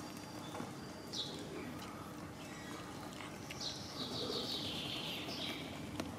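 A small bird calling in the background: one short high falling chirp about a second in, then a rapid twittering trill of about two seconds that drifts slowly down in pitch. Under it, faint soft clicks of cats eating wet food from a plastic tray.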